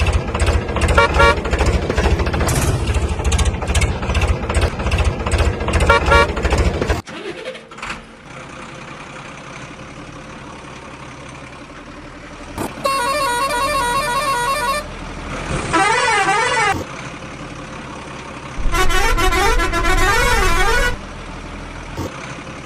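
Toy trucks' electronic horn and siren sounds, in separate bursts of a few seconds, some steady and some wavering up and down. For the first seven seconds they sit over a fast, loud rhythmic pulsing, which drops away to a quieter steady hum.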